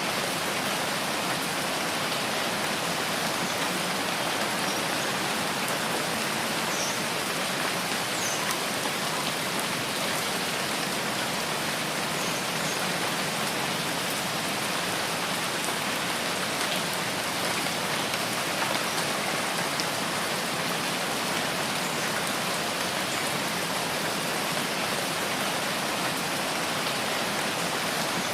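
Steady rain falling, an even hiss with a few faint, scattered drop ticks and no change in strength.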